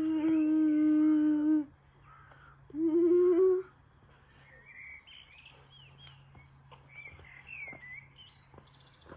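A person humming two held notes, one long and then a shorter, slightly higher one that wavers.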